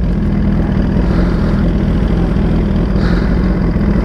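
2020 Suzuki GSX-R 1000 motorcycle's inline-four engine idling steadily.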